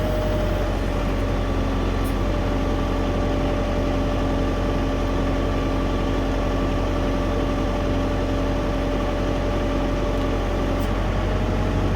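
Tractor diesel engine running steadily at a constant speed, with a steady whine over it.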